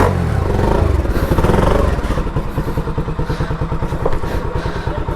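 Motorcycle engine running, louder for the first couple of seconds, then settling into a steady idle with even, rapid firing pulses.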